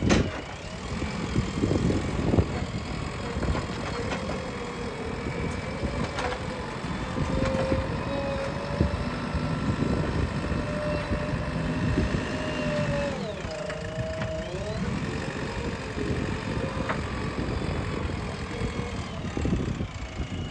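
JCB backhoe's diesel engine running continuously as the machine works; its pitch dips and recovers briefly about two-thirds of the way through as it takes load. A sharp knock comes right at the start.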